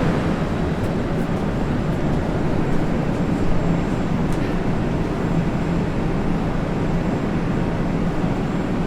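Steady hum and rumble inside a car of an 81-765 «Москва» metro train, with a constant low drone and even noise that does not change.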